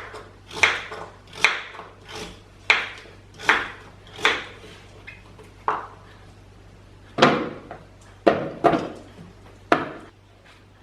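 A kitchen knife cutting through a pumpkin onto a wooden cutting board: about a dozen separate chopping strokes at an uneven pace, with a pause of over a second in the middle.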